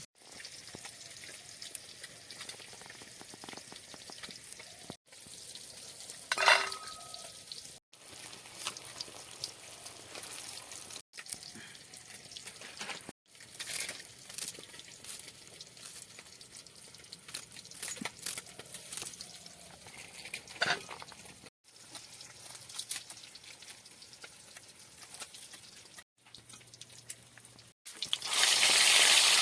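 Oil sizzling steadily in a cooking pot as a curry fries, with scraping and stirring, cut off briefly several times. About six and a half seconds in there is a sharp clink with a short ring, and near the end a much louder rushing hiss sets in.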